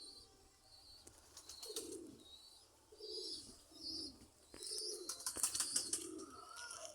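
Domestic pigeons cooing in a series of low, repeated coos, with small birds chirping higher up, more busily in the second half.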